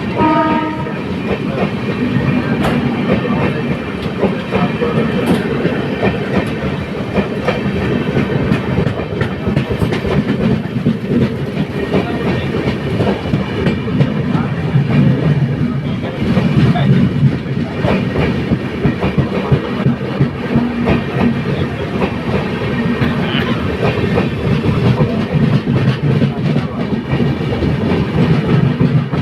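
LHB passenger coach running along the track: a steady rumble with wheels clattering on the rails.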